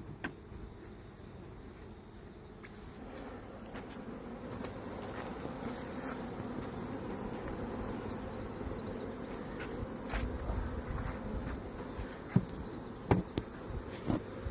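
Honeybee swarm buzzing, a dense steady hum that swells about three seconds in. A few sharp knocks come near the end.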